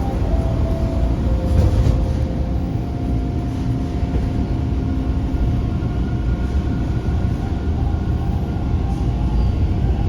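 Toronto subway train heard from inside the car: a steady rumble with a faint whine from the train's motors, and a second, higher whine joining about halfway through.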